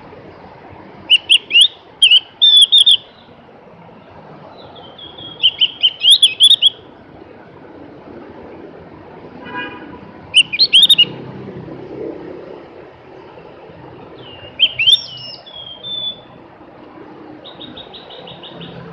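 Javan grey-throated white-eye (opior jawa, cucak gentong) singing: loud, quick chattering phrases of rapidly sweeping notes, about five bursts separated by pauses of a second or more, with a fast buzzy trill near the end.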